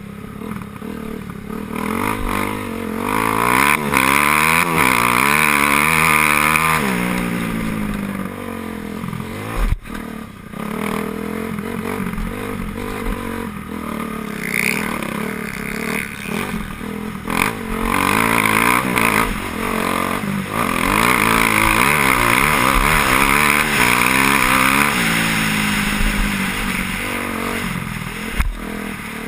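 Motocross bikes racing past, their engines revving up and down through the gears, swelling loud twice as the riders go by.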